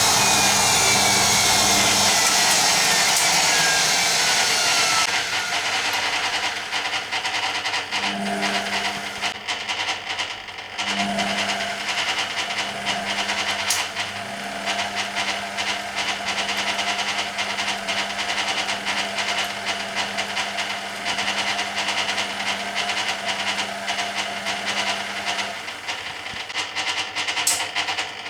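Hoover Keymatic A3112 washing machine's drum and motor on the final spin. For the first few seconds a loud whine falls steadily in pitch as the drum slows. The machine then runs on more quietly with a steady hum and rattling, which breaks briefly twice.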